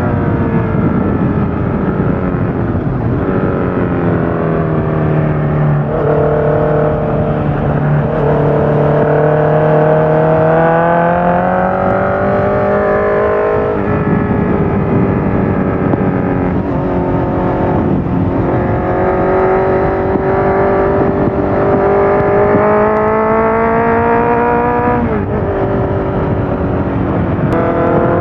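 Honda CBR650F's inline-four engine through a full Akrapovič exhaust with the dB killer fitted. Its pitch falls over the first few seconds, then climbs slowly under load, dropping sharply with an upshift about 14 s in and again about 25 s in.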